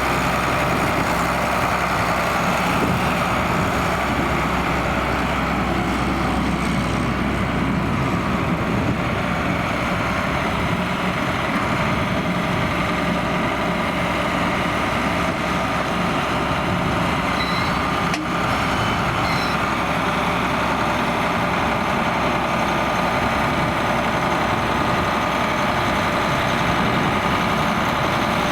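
John Deere 4850 tractor's six-cylinder turbo diesel running steadily under load, pulling a six-furrow plough.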